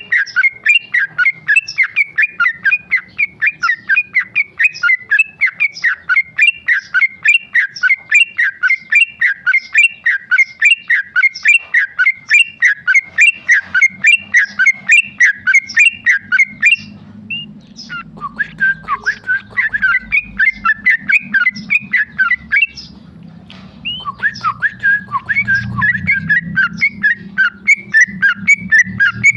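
Yellow-vented bulbul (trucukan) singing a rapid, continuous run of loud chattering notes, several a second, the run breaking off briefly twice in the second half.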